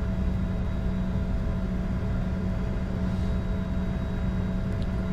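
Steady cockpit hum of a Bombardier Challenger 605 taxiing with its twin GE CF34 turbofans at idle: an even low drone with a constant tone over a rumble.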